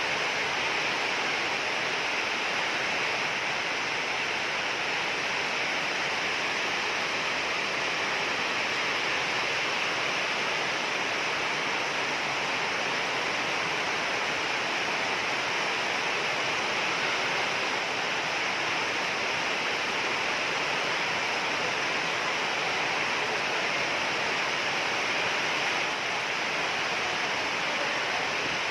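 Heavy rain falling, a steady dense hiss that does not change.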